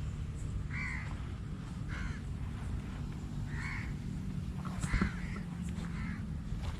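Birds calling in short harsh calls, about one a second, over a steady low hum. A single thump about five seconds in.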